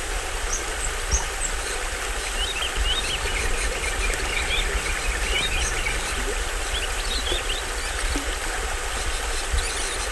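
Small waterfall on a forest stream splashing steadily, with tropical birds chirping in short quick notes, most busily from about two to seven and a half seconds in. A fast, high, repeated trill comes in near the end, over a low rumble underneath.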